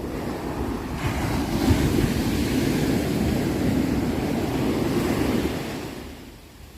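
Ocean surf: a wave breaking and washing in, swelling about a second in and fading away near the end.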